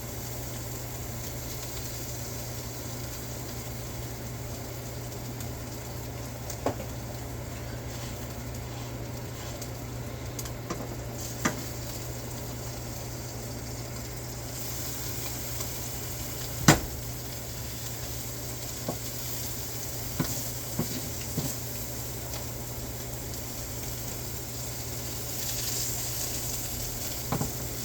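Birria tacos frying in oil in a pan, a steady sizzle that grows a little stronger partway through. A low steady hum runs underneath, and a utensil knocks against the pan now and then, loudest once in the middle.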